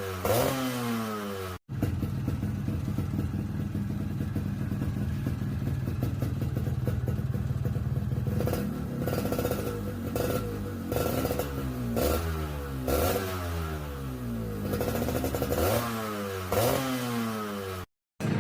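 Yamaha RX-King two-stroke single-cylinder engine through a stock-style muffled exhaust, running steadily, then blipped repeatedly, each rev rising and falling back, about once a second.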